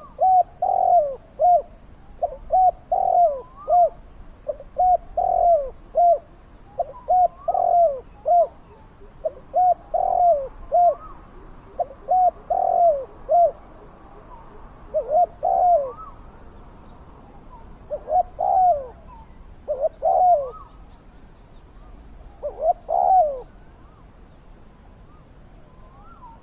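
Spotted doves cooing: groups of short, falling coos repeated every second or two, with fainter calls behind them. The calling stops about 23 seconds in.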